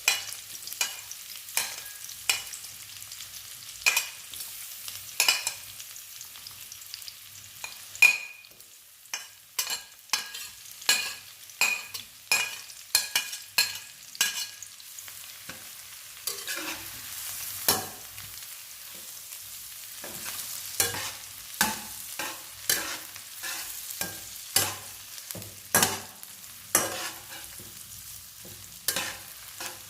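Sliced garlic, shallots, chillies, scallions and sausage sizzling in hot oil in a frying pan, with a spatula scraping and knocking against the pan in repeated strokes as they are stir-fried.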